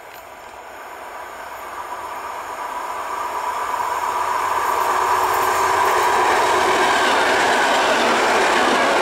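EN57 electric multiple unit approaching and passing close by, its running noise on the rails growing steadily louder over the first five seconds and then staying loud as the carriages go past.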